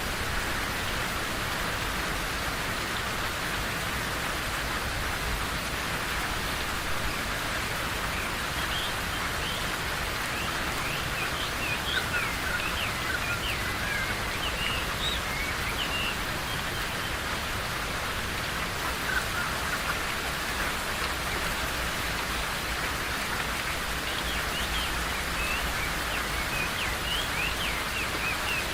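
Steady rain falling, an even hiss throughout. Birds chirp over it in runs of short, high calls, from about eight seconds in for several seconds and again near the end.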